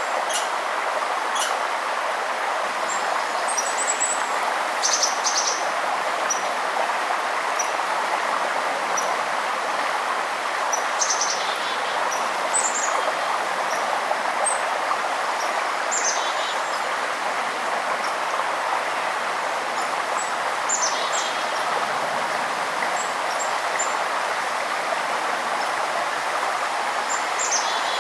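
Steady rush of flowing water, with songbirds giving short high chirps and trills every few seconds over it.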